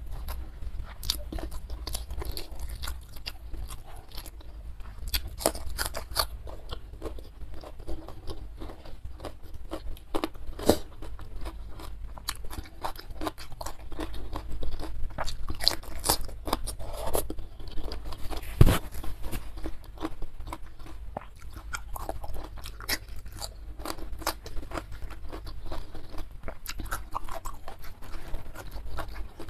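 Close-miked chewing and crunching of ayam geprek (smashed fried chicken), cucumber slices with chili sambal and raw vegetables, with many small crisp clicks of eating and one sharp knock a little past the middle.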